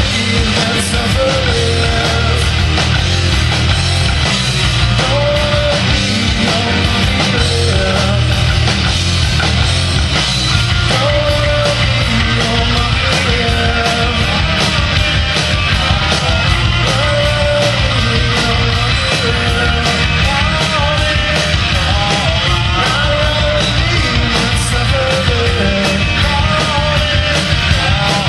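Rock band playing a loud, fast song, continuous and dense throughout.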